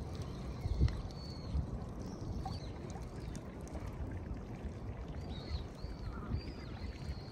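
Short, high bird calls with bending pitch: one about a second in, then a run of several near the end. Under them runs a steady low rumble.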